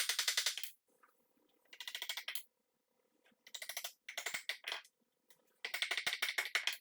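Hand tool cutting wood in five strokes, each a short run of rapid scratchy ticks, with brief pauses between them.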